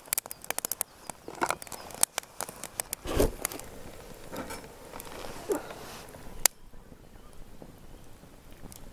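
Sharp, irregular crackling and popping from cooking over a wood campfire, thick for the first three seconds, then sparser, with one loud pop about six and a half seconds in.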